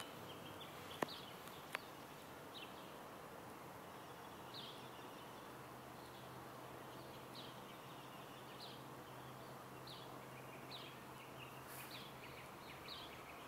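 Small birds chirping faintly, short calls about once a second over a steady background hiss. Two sharp clicks come about a second in.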